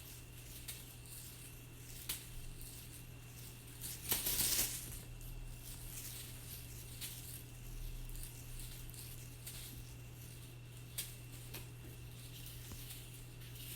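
A cat toy rattling and clicking lightly as a cat plays with it, with a louder rustling, jingling burst about four seconds in. A steady low electrical hum runs underneath.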